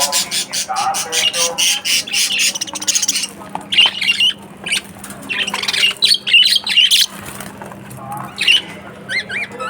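Budgerigars chattering and squawking: a dense run of rapid harsh calls for about the first three seconds, then scattered bursts and short rising-and-falling chirps.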